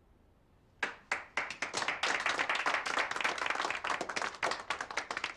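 A group of people clapping: a few claps about a second in, quickly building to steady applause, which begins to thin out near the end.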